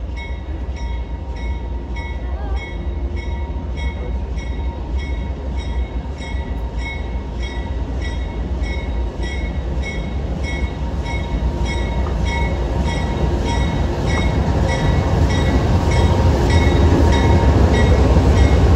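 Long train rolling slowly past, a steady low rumble of wheels and cars growing louder toward the end. Through it, a high repeating ding sounds about twice a second.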